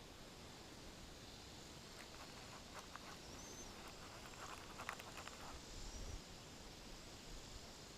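Faint outdoor quiet with a few light clicks and two faint, high, short chirps.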